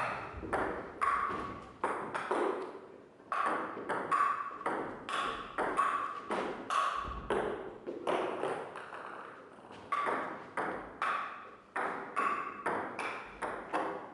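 Table-tennis rally: a ping-pong ball clicking back and forth between bats and table, about two sharp pings a second, each with a brief ring.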